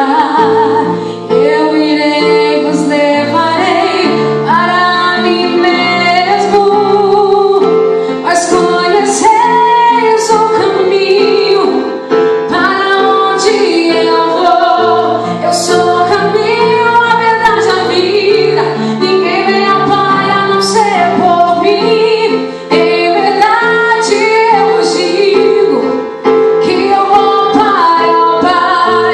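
Woman singing a Portuguese gospel song in long held phrases over sustained keyboard chords, amplified through a church sound system.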